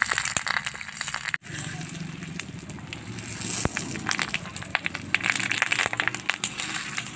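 Banana-leaf-wrapped fish frying on an oiled iron tawa over a wood fire: dense crackling and sizzling, with a metal spatula scraping and pressing the leaf parcels. The sound cuts out for an instant about a second and a half in.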